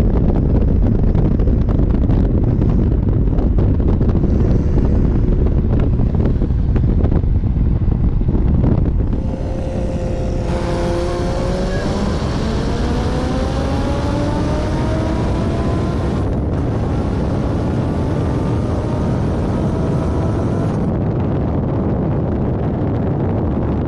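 Car engine running under hard acceleration over heavy wind buffeting. About ten seconds in, the sound changes to a steady engine note whose pitch climbs slowly for about ten seconds as the car gains speed.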